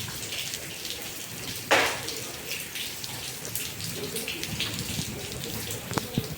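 Rain falling steadily, with close drips and splashes of water; one louder splash about a second and a half in, and a few sharp drip clicks near the end.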